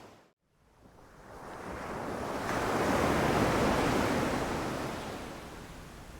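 A sea wave breaking and washing up the shore: a swell of surf noise builds for about two seconds, peaks around the middle and slowly fades. The sound drops out to near silence for a moment just after the start.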